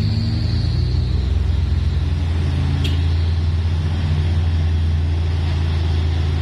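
Truck engine running steadily at a low, even drone, with a single short click about three seconds in.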